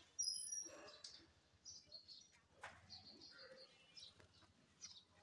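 Faint bird chirps, with one short, sharper high chirp just after the start.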